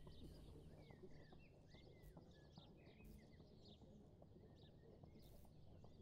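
Faint small birds chirping, many short rising and falling calls, over a low steady rumble of background noise.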